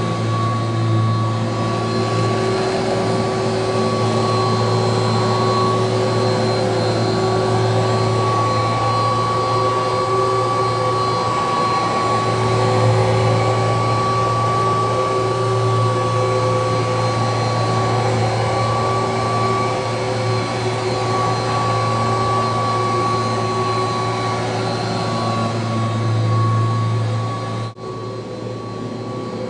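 1985 Kirby Heritage II upright vacuum cleaner running steadily: a motor hum with a constant high whine on top. Near the end the sound dips sharply for a moment, then carries on.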